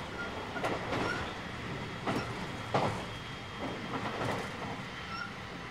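Interior running sound of a JR West 223 series 2000 electric multiple unit at speed: a steady rolling rumble with the wheels clacking over rail joints several times at uneven intervals, the sharpest knock about three seconds in.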